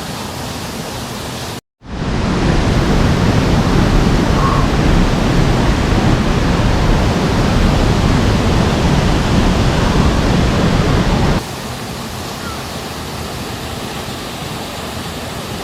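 Steady rush of falling water from a waterfall. It breaks off briefly just under two seconds in, comes back louder and deeper for about ten seconds, then drops back to a lower level.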